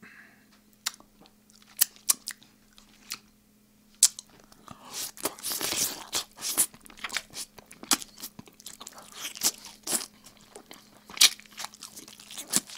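A man chewing oven-roasted chicken close to a microphone, with wet lip-smacking and sharp mouth clicks made deliberately loud for a mukbang. It starts with a few scattered clicks and turns into steady, dense chewing from about four seconds in.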